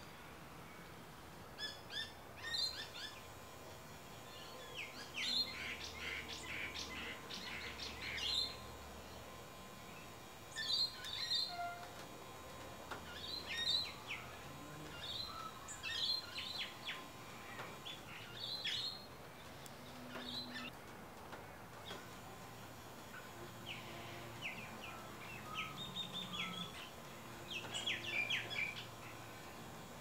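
Small birds chirping in quick clusters of short, high notes, on and off, with a lull about two-thirds of the way through.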